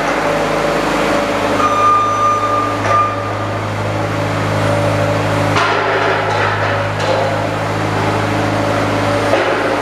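Steady machine hum with a few knocks, as in workshop work on a mower; a short high-pitched tone rings out about two seconds in.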